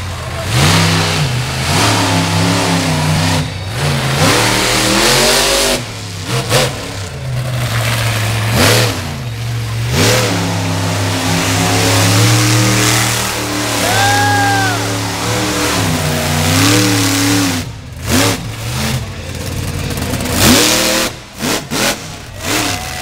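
Monster truck engine revving hard again and again, its pitch climbing and dropping with each burst of throttle.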